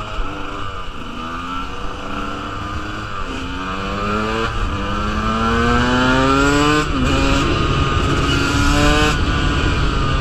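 KTM 125 two-stroke dirt bike engine accelerating hard through the gears. Its pitch climbs and drops back at each of several upshifts, with a longer pull in a high gear in the second half. Wind rush on the microphone runs underneath.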